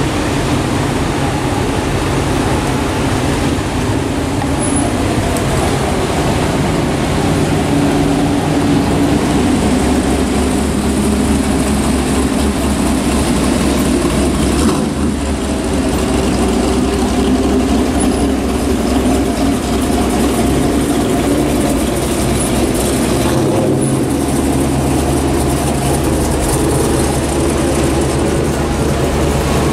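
Engines of classic American cars running at low cruising speed as they pass one after another, a steady low rumble over a constant hiss of surf.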